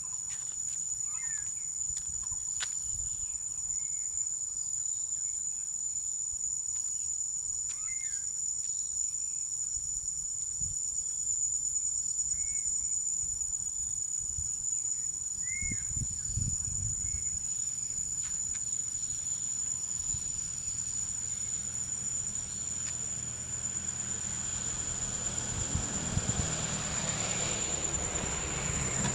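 Insects chirring in one continuous, steady high-pitched drone. Short high chirps of birds come now and then in the first half, and a low rumble rises under the drone from about halfway on.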